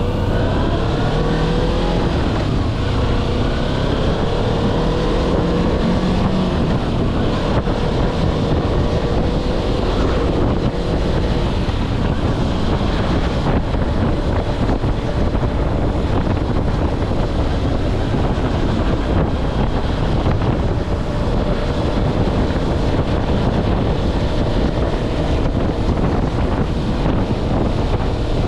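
Kawasaki Versys-X 250's parallel-twin engine running under way, rising in pitch as the bike accelerates in the first few seconds and then holding steady, with heavy wind noise on the microphone.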